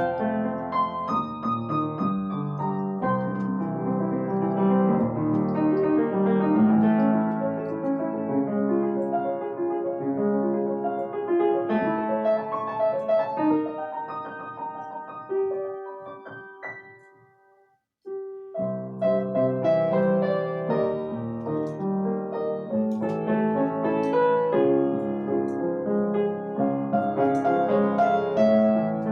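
Solo piano playing a gentle piece. A little past halfway the music thins to one held note and stops for about a second, then the playing resumes.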